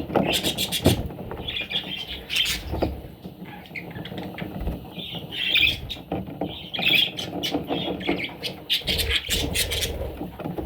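Parrots squawking and chirping in short, repeated calls, with many sharp clicks and taps among them.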